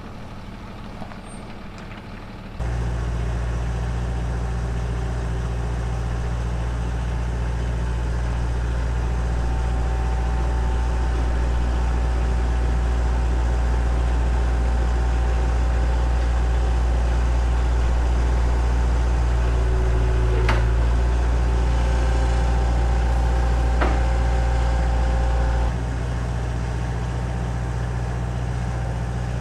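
A vehicle engine running steadily at a low, even pitch. It comes in suddenly about two and a half seconds in and drops in level near the end, with two short sharp sounds over it shortly before.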